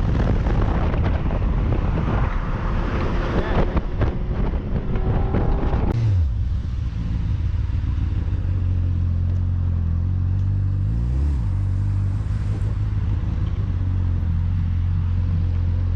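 Motorcycle riding with wind and road noise, then engine revs falling about six seconds in as it slows and settles into a steady idle. There is one short blip of the throttle a few seconds later.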